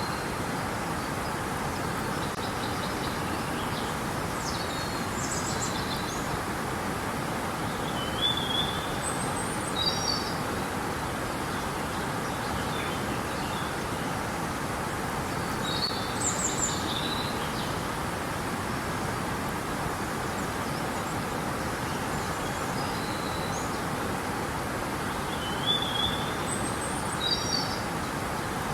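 Steady rush of flowing river water, with birds chirping short high phrases over it every few seconds.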